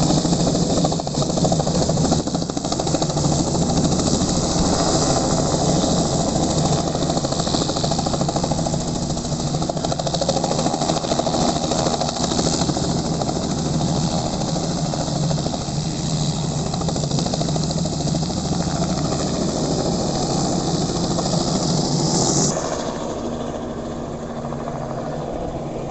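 Helicopter running steadily, a loud dense noise with a low steady hum. Near the end it drops suddenly, becoming quieter and duller.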